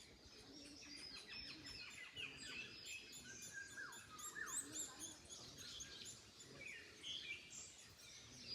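Several small birds chirping and singing at once, many short overlapping calls, some of them quick falling whistles.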